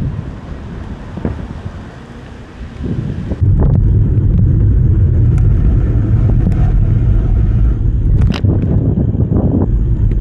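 Wind buffeting the microphone of a camera riding on a moving e-bike: a loud, steady low rumble that sets in suddenly about a third of the way in, with a few light clicks.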